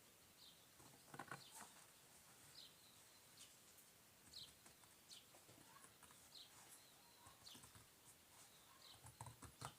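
Near silence: faint room tone with faint short high chirps about once a second.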